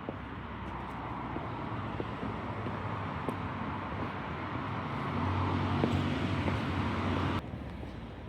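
A motor vehicle running past on the street, its noise building and its low engine hum strongest a few seconds in, then cutting off suddenly near the end.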